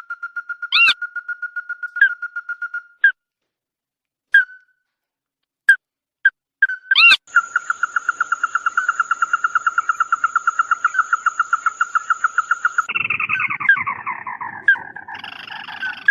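Calls of the bird known in Vietnam as chim mắt đỏ ('red-eyed bird'): quick runs of short notes on one pitch, about five or six a second, breaking off and starting again, with a few sharp clicks between runs. Near the end the calls turn into a jumble of lower, overlapping notes.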